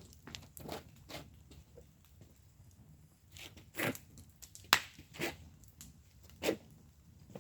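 Wood burning in a fire pit, crackling with irregular sharp pops of varying loudness; the loudest pop comes about two-thirds of the way in.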